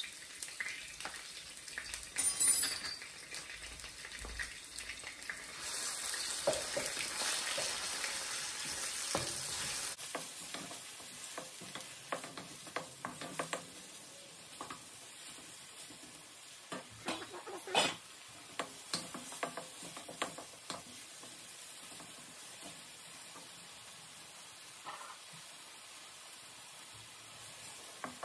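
Grated onion frying in hot oil in a wok, sizzling steadily while a wooden spoon stirs it, with scattered sharp knocks of the spoon against the pan. The sizzle is louder from about six to ten seconds in.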